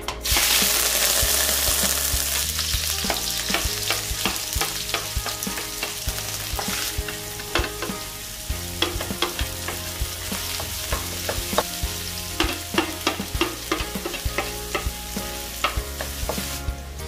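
Chopped onion, garlic, ginger and chilies dropped into hot oil in a wok, starting a sudden loud sizzle that runs on as they fry. A wooden spatula stirs them against the wok with many quick clicks and scrapes, and the sizzle dies down near the end.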